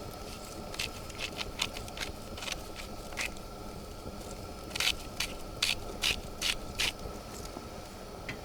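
A series of short, sharp scraping strokes at an irregular pace, with a quicker, louder run of about five strokes in the second half.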